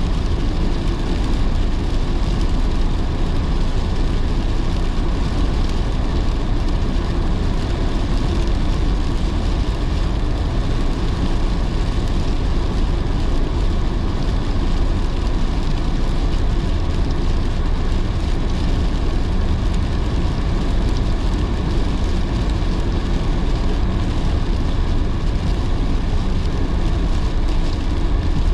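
A car driving in heavy rain: steady low road and engine noise mixed with the hiss of rain on the car.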